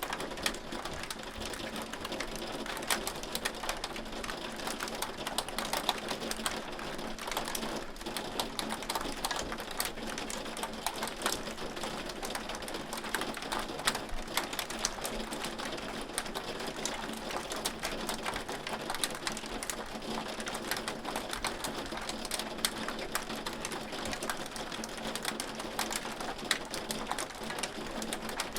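Hail falling: a steady, dense run of sharp clicks from hailstones striking, over an even hiss.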